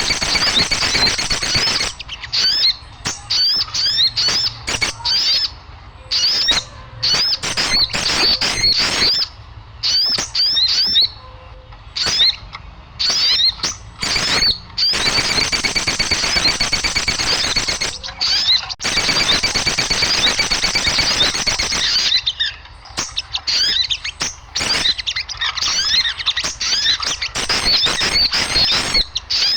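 Small birds chirping and chattering noisily. Quick high chirps come in rapid runs, alternating with stretches of dense chatter, with short breaks between the runs.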